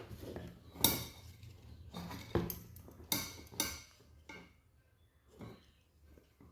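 Small hard objects being handled: several light clinks and knocks, the sharpest about a second in and a cluster around three to four seconds in.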